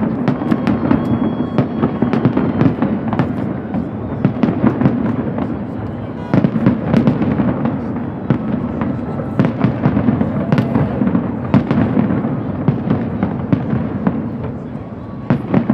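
Fireworks display bursting in rapid, irregular succession: many sharp bangs and crackles, with a loud fresh burst about six seconds in.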